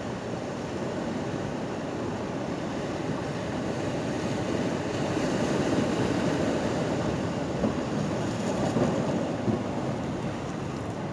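Ocean waves washing against a pier. The wash swells in the middle, with a few small splashes near the end.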